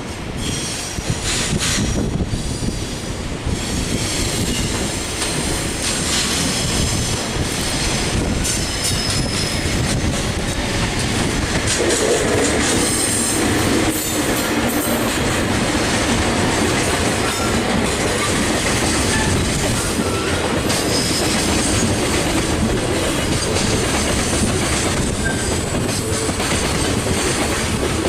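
Freight train passing close by on the Kagoshima Main Line, a steady loud rolling noise of wheels on rail that builds in the first second or two, with intermittent high-pitched wheel squeal.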